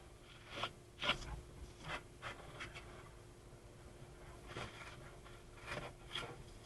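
Short, faint rubbing and scraping noises, about seven of them at uneven intervals, over a low steady hum.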